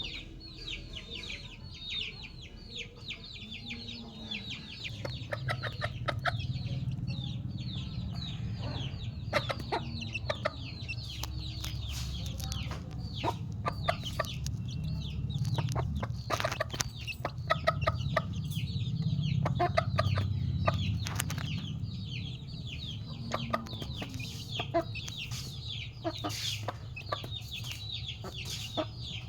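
Chickens clucking, over a steady run of high, quick falling chirps. A low rumble comes in about five seconds in, with scattered sharp clicks.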